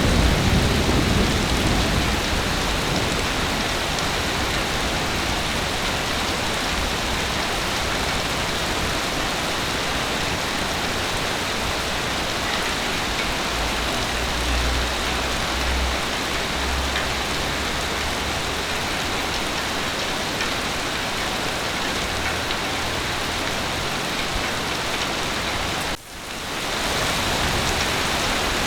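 Heavy rain falling steadily, a dense even hiss, with low thunder rumbling and fading at the start and rumbling again faintly around the middle. The sound drops out briefly near the end and fades back in.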